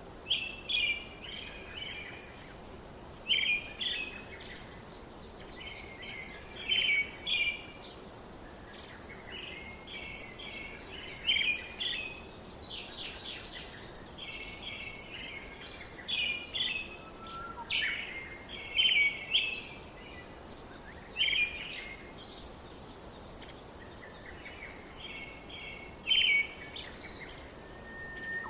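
Birds singing in short bursts of quick chirps that repeat every two to three seconds, over a steady faint hiss of outdoor background noise.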